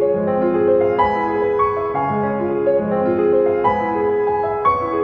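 Background piano music: a gentle melody of notes changing about every half second.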